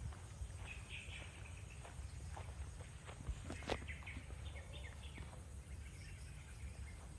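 Faint bird chirps in short runs over a low, steady outdoor rumble, with a sharp click a little past halfway.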